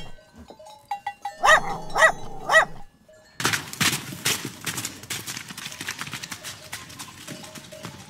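A dog barks three times in quick succession. Then, from about three and a half seconds in, a zebra gives a long, rasping call in rapid pulses that fades as it goes on.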